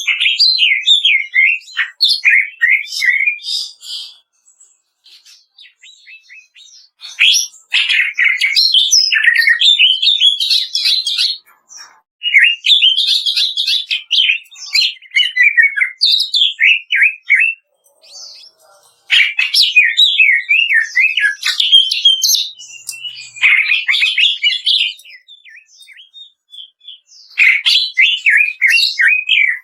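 Green leafbird (cucak ijo) singing: bouts of rapid, high, chattering 'kretekan' notes a few seconds long, separated by short pauses.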